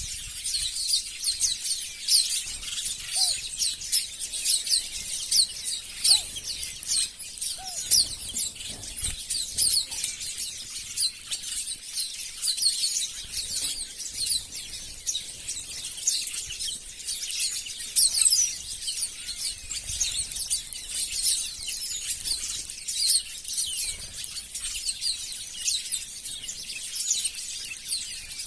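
A flock of small birds chirping all at once: a dense, unbroken twittering of short high notes, with a few lower single notes in the first eight seconds.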